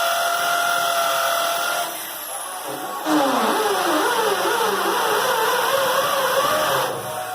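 Vacuum cleaner motor running with a steady whine, which drops away briefly about two seconds in. It comes back at about three seconds with a pitch that swings up and down for several seconds, then cuts off near the end.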